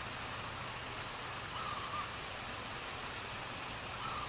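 Two short, faint caws of a crow, about two and a half seconds apart.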